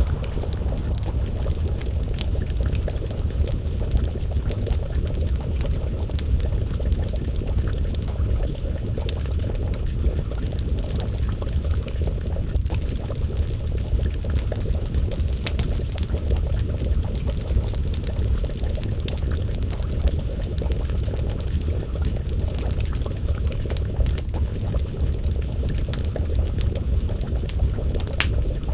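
Pot of stew bubbling and simmering over a crackling wood fire: a steady low rumble dotted with many small, irregular pops and crackles.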